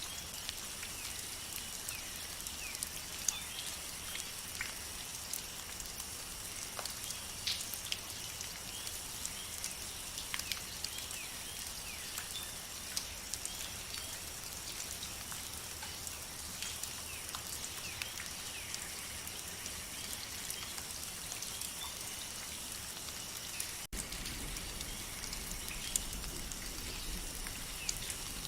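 Rainforest rain ambience: steady rain with individual drops ticking, over a steady high-pitched chorus and many short chirping animal calls. About 24 seconds in, the sound drops out for an instant and resumes with a little more low rumble.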